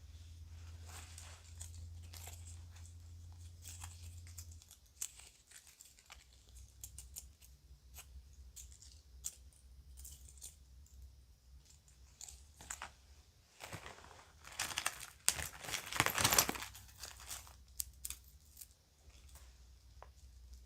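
Children's plastic and metal jewelry being handled, with scattered small clicks and ticks. About two-thirds of the way through, a louder stretch of bag crinkling and rustling lasts about two seconds.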